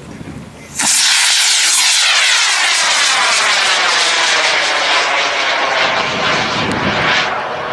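Model rocket motor lighting about a second in with a sudden loud rushing roar, which then slowly fades and thins as the rocket climbs away.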